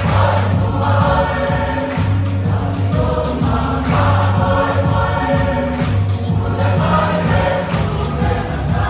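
A choir singing a hymn with instrumental backing and a steady bass line, in held phrases.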